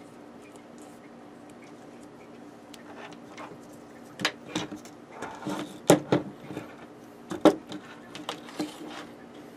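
Handling noises as tape is worked onto wire ends: irregular rustles and sharp clicks that start about four seconds in, the loudest about six and seven and a half seconds in, over a steady low hum.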